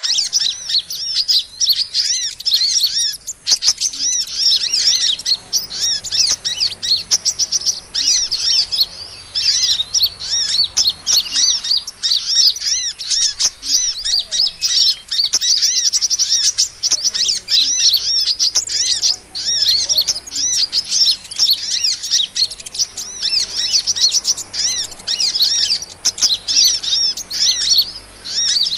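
Small songbirds twittering in a dense, unbroken stream of rapid high chirps and short arching notes. This is a bird-lure (pikat) call recording used to draw small birds in, sold as a 'kolibri' call, the Indonesian name for sunbirds.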